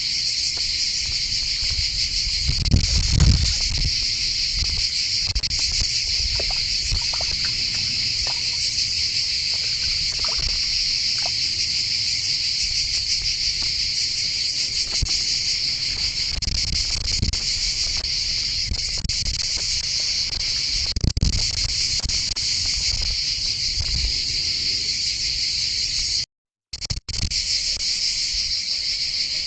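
A steady, dense chorus of insects, a shrill high-pitched buzz that never lets up. A few low bumps come about three seconds in and again about twenty-one seconds in, and the sound cuts out for a moment near the end.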